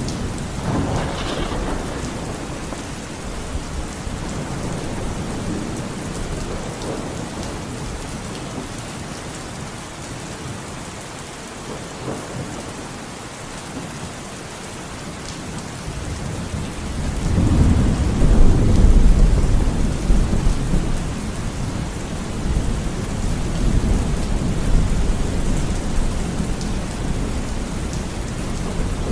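Steady rain falling, with rolling thunder: a low rumble swells up about two thirds of the way through and fades over a few seconds, with weaker rumbles after it.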